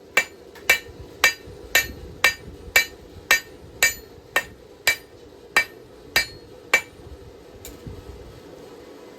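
Hand hammer forging hot knife steel on an anvil: a steady run of about two blows a second, each a sharp strike with a short metallic ring. The blows stop about seven seconds in.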